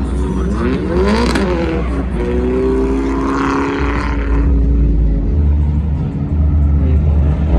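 A drift car's engine revving hard: its pitch climbs steeply in the first second or so, then holds high and steady for a few seconds, over a heavy low rumble.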